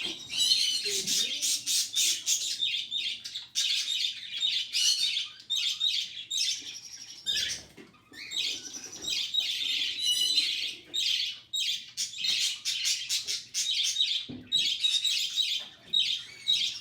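Five-week-old budgerigar chick begging for food: rapid, insistent high-pitched chirping in runs broken by a couple of short pauses.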